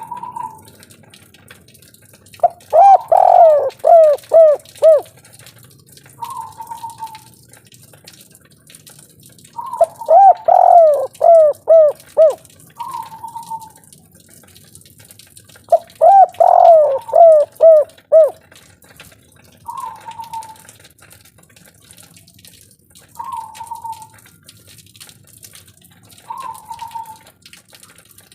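Spotted dove (tekukur/derkuku, a 'kuk 3' singer) cooing in three phrases about six seconds apart, each a quick run of six or seven coos. Shorter, fainter single notes come between the phrases.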